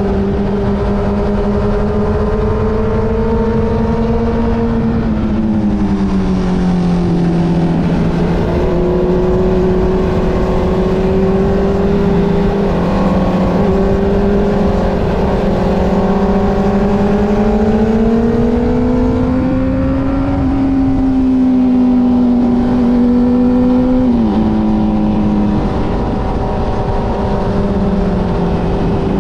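Motorcycle engine running under way, its note holding steady for long stretches and rising slowly in the middle. It drops in pitch a few times: about five seconds in, and twice near the end.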